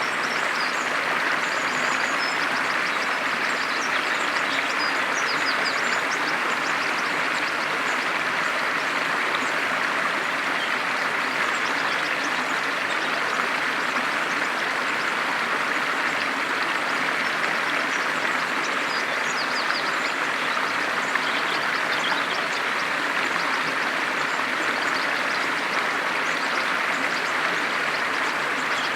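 A stream running steadily, with small birds chirping faintly now and then above it.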